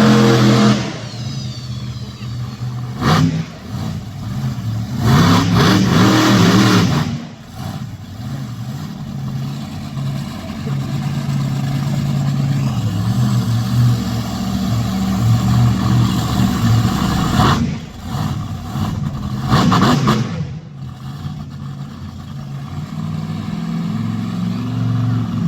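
Monster truck engine running with a steady rumble, breaking into several loud bursts of revving; the longest lasts about two seconds and comes about five seconds in, with two more near the middle.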